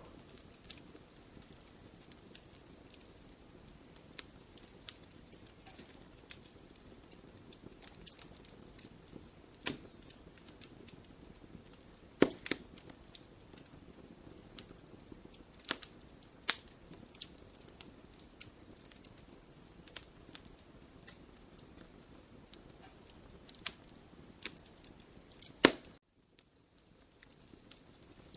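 Wood fire crackling in a fireplace: a soft steady hiss with frequent small snaps and a few loud pops. The sound drops out briefly near the end.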